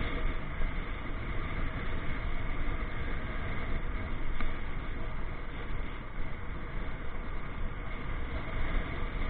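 Ride-along noise of a motorcycle travelling through city streets: a steady, noisy rumble heaviest in the low end, without distinct events.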